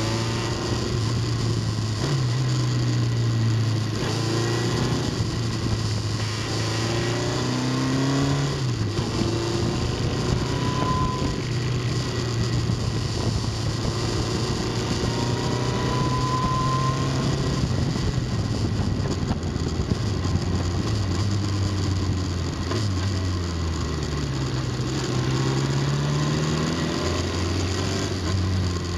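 Motorcycle engine heard on board while riding, its pitch climbing and dropping several times with throttle and gear changes, over steady wind and road noise.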